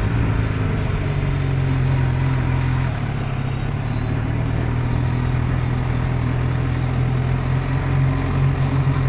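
Motorcycle engine running steadily at low revs while the bike is ridden slowly.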